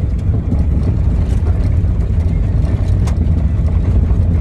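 Steady low rumble of a running vehicle, engine and road noise, with no change in pitch.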